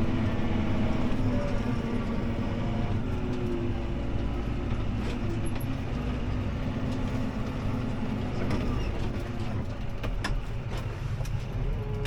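CLAAS ARION 650 tractor's six-cylinder diesel engine running steadily under load as it pulls a disc harrow, heard from inside the cab. A few sharp ticks come in the second half.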